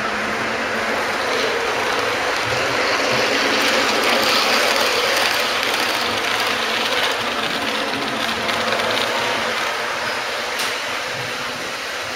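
Model train running along its track, the rattle of its wheels on the rails swelling as it passes close, loudest about four seconds in, then easing off.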